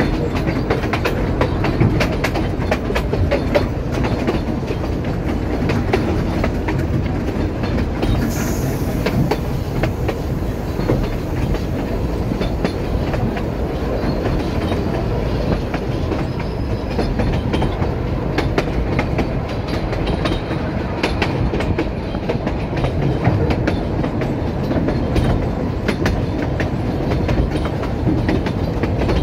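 Puffing Billy narrow-gauge steam train's carriage running along the track, heard from on board: a steady rumble of the wheels on the rails with many clicks over the rail joints.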